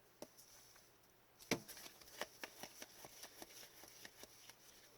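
Faint clicks of trading cards being flipped one by one through the hands: a sharper snap about a second and a half in, then a quick run of light clicks, about four or five a second.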